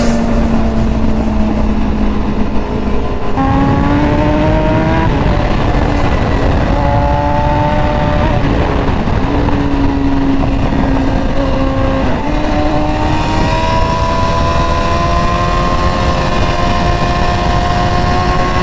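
Sport motorcycle engine running at speed under a steady rush of wind noise. The engine note steps up in pitch about three seconds in, then shifts up and down several more times.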